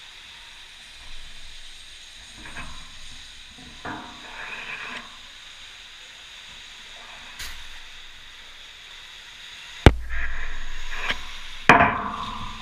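Riding noise from an electric dirt bike: a steady hiss with scattered light knocks, then a sharp, hard thud about ten seconds in followed by a low rumble, and a second hard thud near the end.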